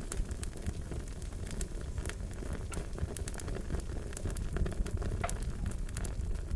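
Wood fire burning, with a steady low rumble and frequent sharp crackles and pops throughout.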